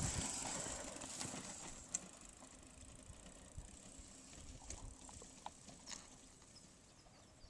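Bicycle on a dirt trail: a rush of noise that fades over the first two seconds, then faint scattered clicks and rattles.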